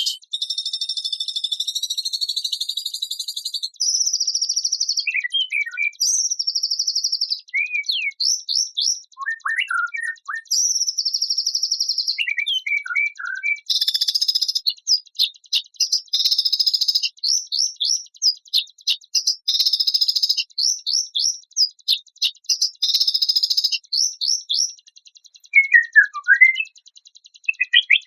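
Songbird song used as training material for white-rumped shamas: rapid, high-pitched chirps and buzzy trills in short repeated phrases, with a few lower falling notes mixed in.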